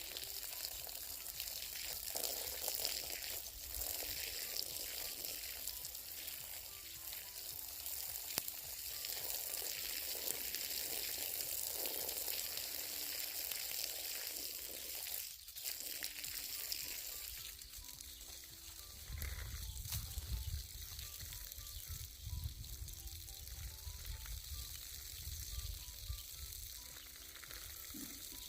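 Water spraying from a hose onto plants, a steady hiss, with faint background music. From about two-thirds of the way in, gusts of wind rumble on the microphone.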